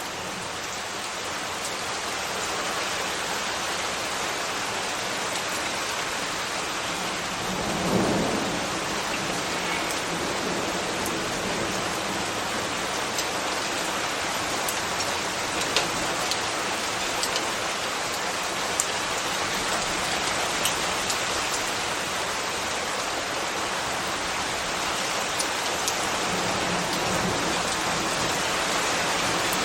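Steady rain falling, with scattered sharp drip ticks. A brief low rumble swells and fades about eight seconds in.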